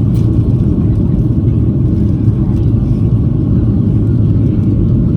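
Steady, loud cabin noise inside a Boeing 737-800: the low rumble of its CFM56-7B turbofan engines and airflow, heard from a window seat behind the wing.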